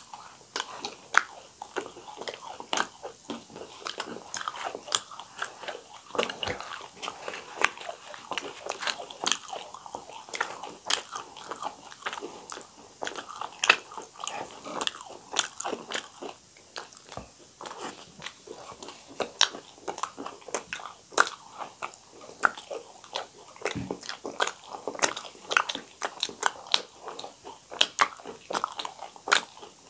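Two people biting and chewing deep-fried pooris with vegetable curry, close to the microphone: a dense, irregular run of sharp crunches and wet mouth clicks.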